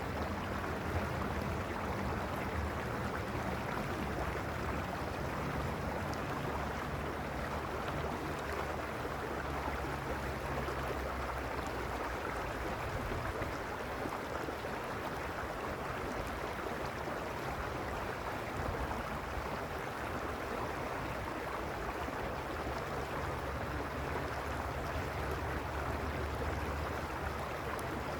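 Mountain creek rushing steadily over stones, an even unbroken flow of water. Underneath, a low rumble swells through the first half and again near the end.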